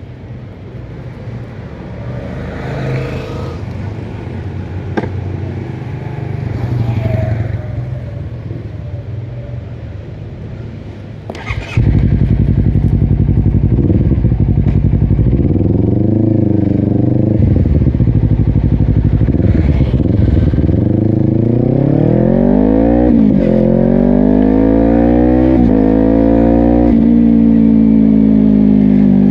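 Honda CBR250RR parallel-twin through a Yoshimura exhaust: the engine comes in suddenly about twelve seconds in, runs at idle with a couple of short revs, then climbs in pitch several times as the bike pulls away and settles into a steady tone near the end. Before it starts, only low noise with a couple of passing vehicle sweeps.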